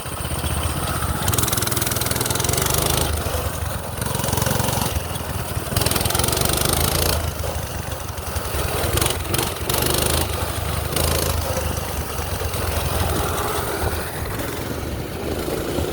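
Minibike's small gasoline engine running steadily alongside, with hissy wind noise on the microphone coming and going.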